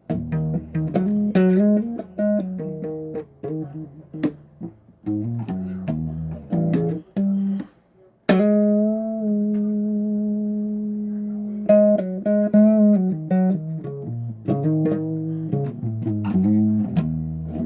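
Electric bass guitar played solo: a run of plucked notes, then about eight seconds in one sharply struck note held for a few seconds, then more quick notes.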